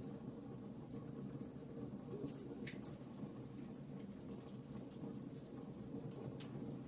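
Wood fire burning in a fireplace: a faint, steady low rush of flame with small, sharp crackles and pops from the burning logs scattered throughout, one standing out a little under three seconds in.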